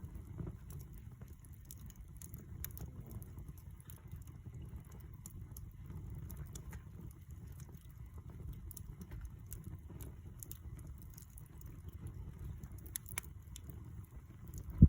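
Wood campfire crackling, with scattered sharp pops over a steady low rumble and one loud pop at the very end.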